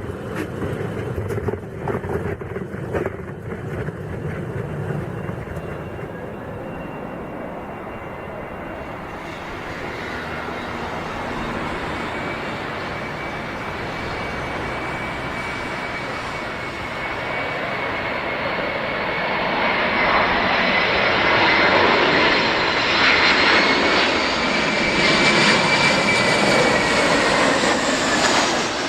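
Boeing 737 jet engines running with a steady whine that appears about a third of the way in and grows louder, loudest over the last third, then eases off at the very end.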